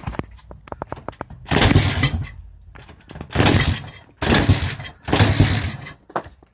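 1989 Honda XR100's single-cylinder four-stroke being kick-started: a run of quick clicks, then four short bursts as the engine turns over without catching. It will not start despite checked timing and carburettor.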